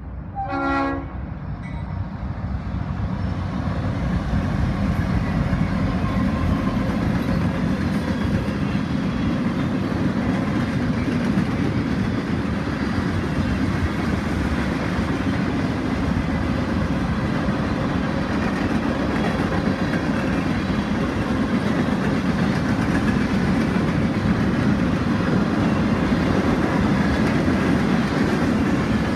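Norfolk Southern mixed freight train: a short horn blast about a second in, then the freight cars roll past over the crossing with a steady noise of wheels on rail that builds over the first few seconds and holds.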